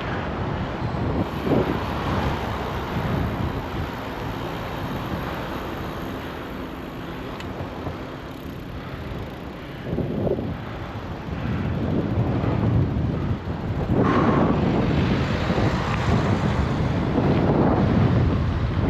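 Wind buffeting a GoPro's microphone on a moving bicycle, a low rumbling rush with gusts. It grows louder about three-quarters of the way through.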